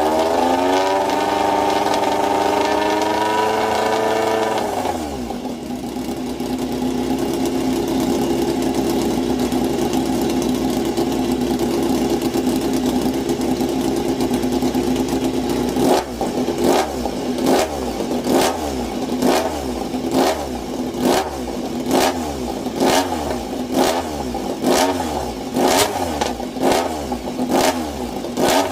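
Motorcycle engine revved and held at high revs for a few seconds, then dropping back to a steady idle. About halfway through, quick throttle blips start, repeating about every two-thirds of a second.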